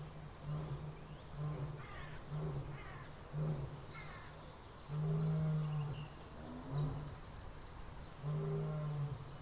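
Animal calls: a low call repeated again and again in short and longer notes, with birds chirping high above.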